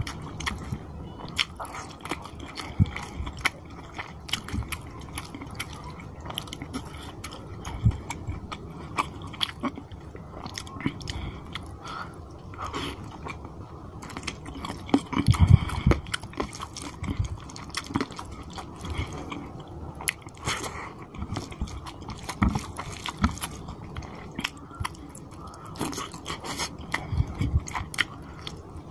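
Close-miked chewing and biting of mouthfuls of rice and chicken curry eaten by hand, full of small wet clicks. A louder low thud comes about 15 seconds in.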